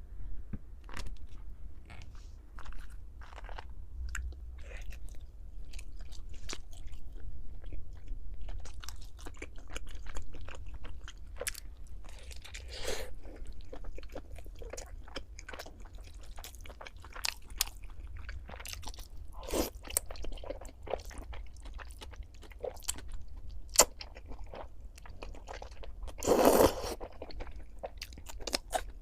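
Close-miked eating of cai tuotuo vegetable dumplings: repeated bites and crunchy chewing, with one louder, longer crunch near the end.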